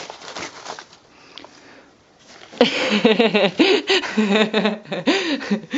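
Paper flyer rustling and crinkling softly as a cat paws and grabs at it. About two and a half seconds in, a woman's voice takes over, talking and laughing.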